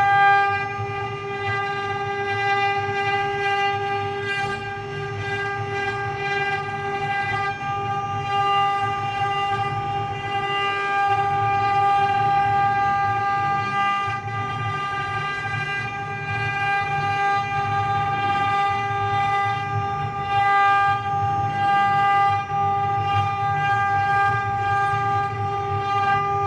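Mini CNC machine running with a steady, even-pitched whine over a low hum.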